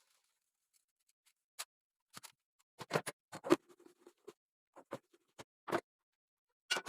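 Kitchenware being handled and set down: a scattering of sharp clicks and knocks, the loudest about halfway through, one followed by a brief low ring.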